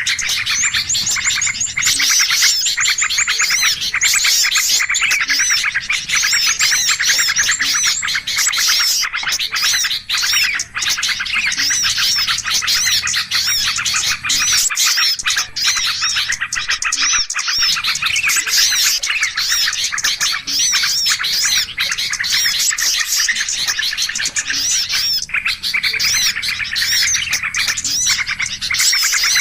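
Dense, unbroken chorus of many small songbirds chirping, trilling and calling over one another, a layered bird-luring (pikat) recording meant to draw in wild birds of all kinds.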